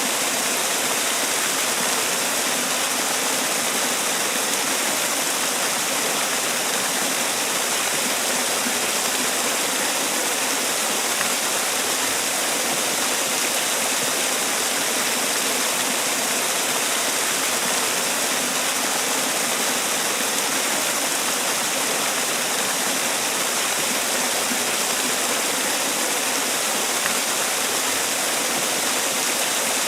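Man-made waterfall: water falling and splashing in a steady, unbroken rush, with most of its energy in the hiss and little low rumble.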